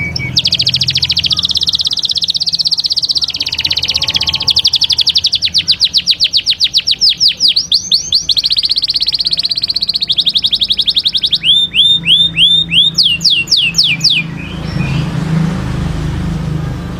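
Domestic canary singing a long song of rapid trills and rolls, with quick runs of falling whistled notes; the song breaks off about three seconds before the end.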